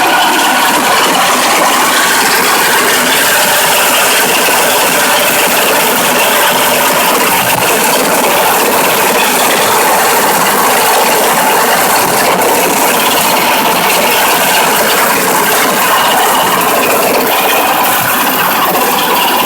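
MOROZ pumpkin seed harvesting combine with a 16 hp petrol engine running at work, a loud, steady mechanical din of engine and machinery.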